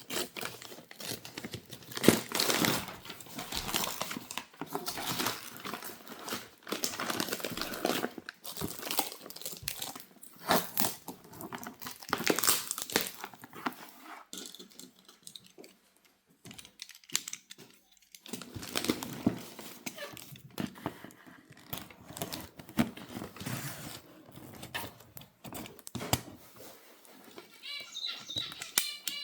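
Packaging being handled: paper or plastic wrapping crinkled, rustled and torn open by hand in irregular bursts. Near the end a run of high chirps comes in.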